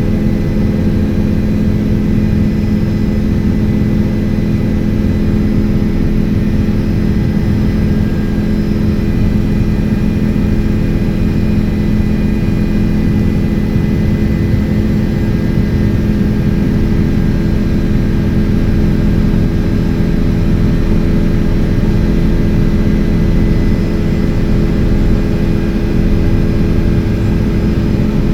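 Helicopter running steadily: a loud, unchanging drone of engine and rotor with a steady hum.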